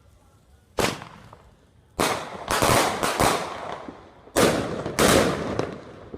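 Fireworks going off: a single sharp bang, then irregular clusters of about seven more, each sudden and dying away in an echoing tail.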